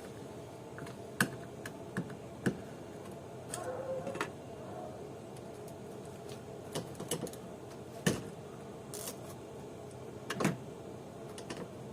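Scattered sharp clicks and knocks of hand tools and the wiper arms being worked loose, the loudest knock about eight seconds in, with a faint brief squeak around four seconds.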